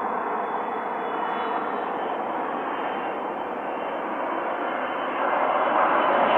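Jet airliner engines running: a steady rushing noise that grows louder about five seconds in.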